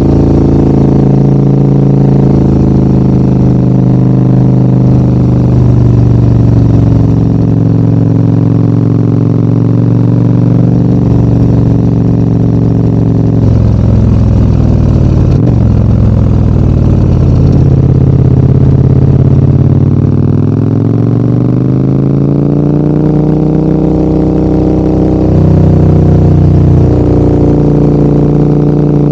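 Large adventure motorcycle's engine running under load on a climb, heard from the rider's camera. The engine note holds steady, drops off briefly about halfway, then climbs again as the bike accelerates, with a sudden step in pitch a few seconds before the end, like a gear change.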